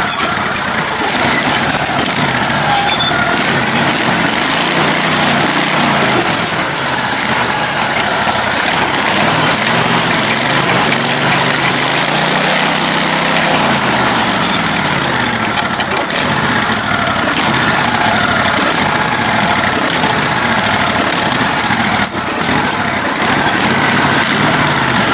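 Engine of a lifted, modified riding mower running continuously while driving off-road, its pitch rising and falling twice as the throttle is worked.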